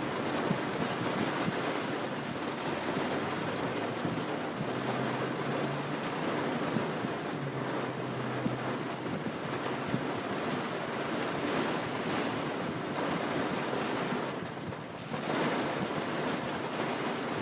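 Heavy rain pouring down in a steady rush, briefly dipping in loudness near the end.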